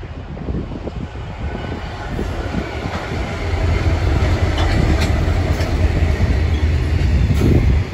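Pacific National freight train passing close by: three diesel-electric locomotives (8144, BL31, XR559) run past with a heavy low rumble that swells as they draw level. Container wagons follow, rolling by with sharp wheel clicks.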